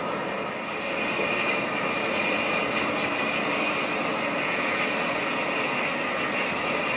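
Intercity bus on the move: steady running noise of tyres, engine and body, rising slightly about a second in and then holding level.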